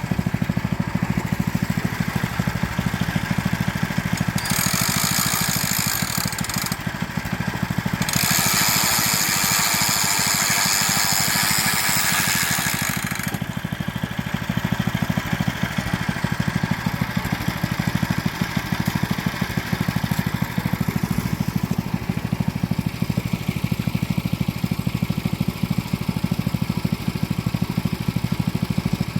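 Small engine of a self-propelled boat trailer running steadily at low speed. A loud hiss rises over it twice, briefly and then for about five seconds.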